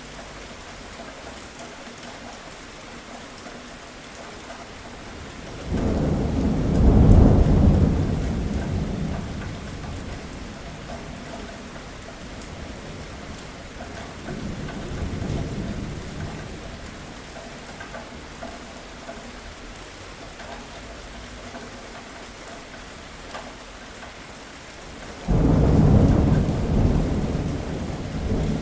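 Steady heavy rain falling, with three rolls of thunder: a loud one about six seconds in that fades over several seconds, a softer one in the middle, and another loud one that breaks in suddenly near the end.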